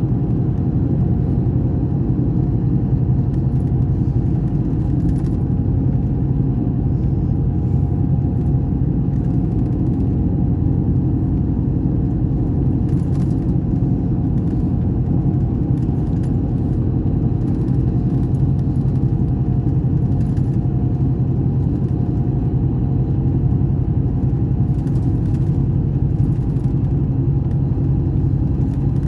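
Scania K420 bus engine running at a steady, unchanging speed: a constant low drone that neither rises nor falls, with faint light rattles.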